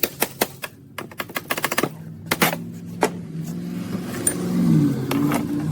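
A fast run of sharp ratcheting clicks, about five a second for roughly two seconds. A steady motor hum follows, dipping briefly in pitch and recovering near the end.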